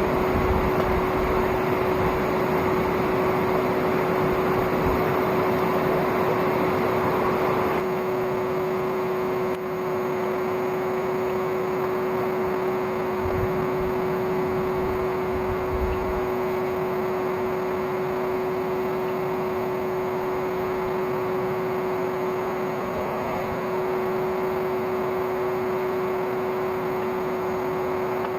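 An old vacuum cleaner motor running as the air blower of a homemade coal forge: a steady whine over a rush of air, a little quieter from about eight seconds in.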